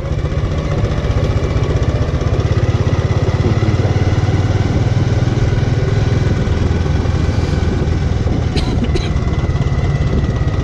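Bajaj Avenger motorcycle's single-cylinder engine running steadily.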